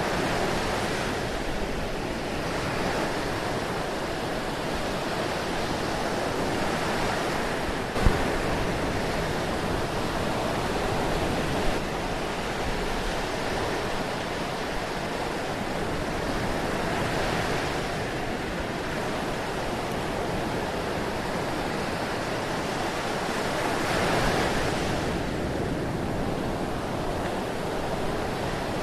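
Ocean surf washing steadily, swelling and easing every several seconds as waves break and run out. There is one sharp click about a third of the way in.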